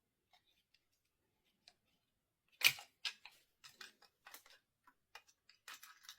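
A sharp click about two and a half seconds in, then a run of light, irregular clicks and taps: small hand tools and metal parts being handled during work on an e-scooter.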